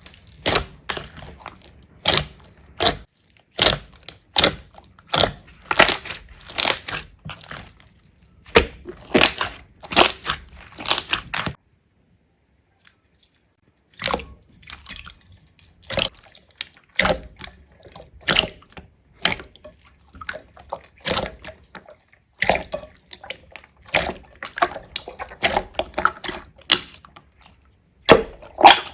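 Slime being squished and poked, making wet clicky pops and crackles in quick irregular clusters, with a silent gap of about two seconds midway.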